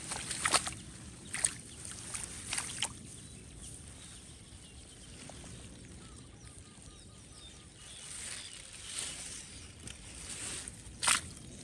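Shallow water in a flooded rice field splashing and sloshing, with a few sharp splashes in the first three seconds and a louder one near the end.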